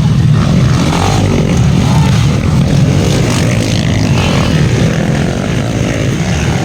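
Several motocross motorcycle engines running hard and revving as a pack of bikes races around the track.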